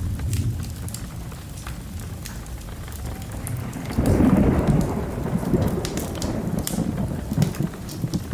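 Thunderstorm ambience: steady rain with a low rumble, and a roll of thunder that swells about four seconds in and rumbles on.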